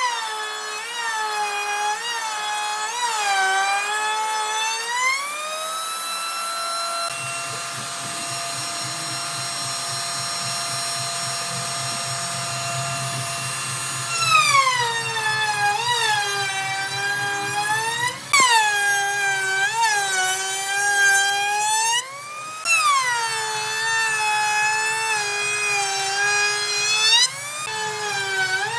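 A high-speed electric power tool whining as it works wood. Its pitch sags each time it is pressed into the cut and climbs back when eased off, and it runs freely at a steady high pitch for several seconds in the middle.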